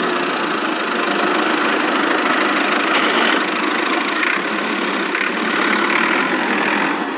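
The small motor of a DIY mini tractor running steadily, with a continuous rattling buzz.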